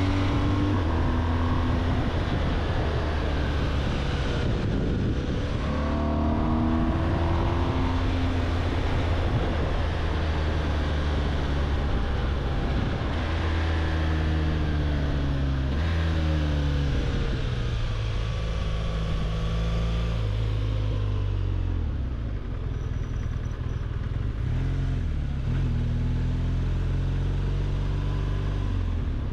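BMW R 1200 GS flat-twin boxer engine running under way, its note rising and falling with the throttle and stepping in pitch at gear changes, over steady wind and road noise.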